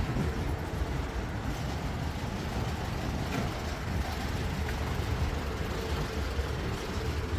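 A steady low vehicle rumble with no distinct events.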